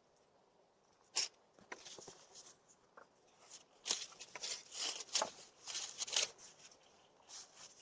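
Irregular rustling and crunching with a few sharp snaps, busiest through the middle and tailing off near the end.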